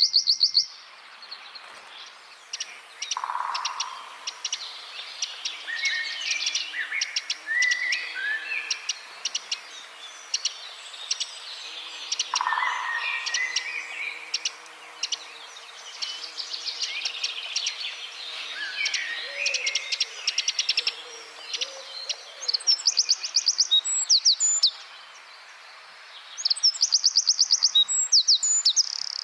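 Wren singing a dense, rapid-fire song: quick ticking high notes and descending chirp phrases, ending with two loud, very fast trills.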